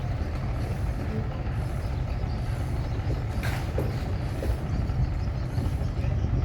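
Fishing boat's engine running with a steady low rumble as the boat motors onto the slipway cradle, with one short sharp knock about halfway through.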